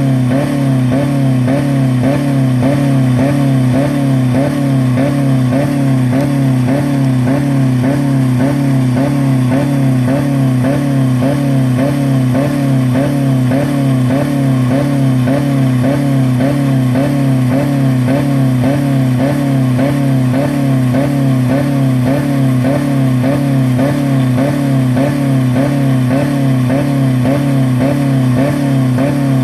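2000 Dodge Neon's 2.0-litre four-cylinder engine running flat out against the rev limiter with a steady pulsing a couple of times a second. The engine has no oil or coolant left in it.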